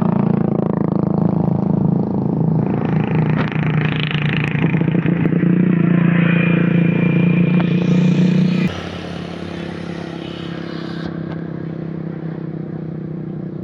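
A vehicle engine runs loudly and steadily, then drops sharply to a quieter running level about nine seconds in.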